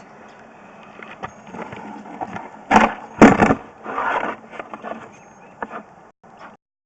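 Irregular scraping and knocking from sewer inspection camera gear being handled, with a few louder scraping surges about three seconds in.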